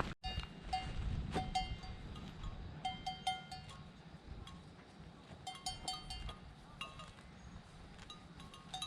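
Small metal bells ringing in irregular clusters of quick strikes, at a few fixed pitches, over a low rumble.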